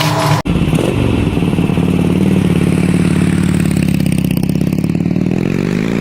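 An engine running with fast, even firing pulses, its pitch sinking a little and then rising toward the end as it revs up. It starts abruptly after a cut from another engine-like sound about half a second in.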